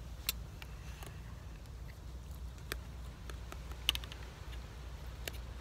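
A person chewing a mouthful of food close to the microphone: scattered small clicks about once a second over a steady low rumble.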